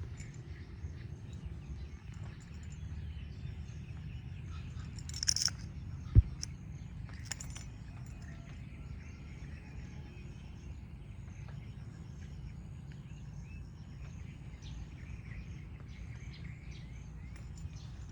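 Outdoor ambience: faint bird chirps over a steady low rumble, with a louder high burst about five seconds in and a single sharp knock about a second later.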